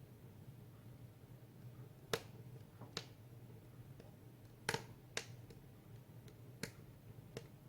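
Firewood burning in a wood stove, crackling with sharp, irregular pops, about six of them, the loudest about two seconds in and again near the middle.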